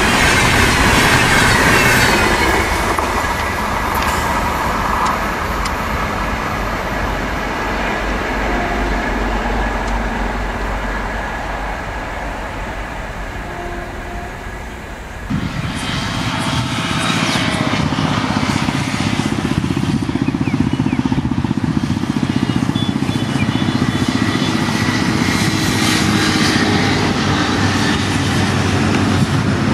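Express train of LHB passenger coaches rushing past at speed, the wheel and rail noise fading steadily as it recedes. About halfway through it is replaced abruptly by the steady low hum of a diesel locomotive's engine as it approaches slowly.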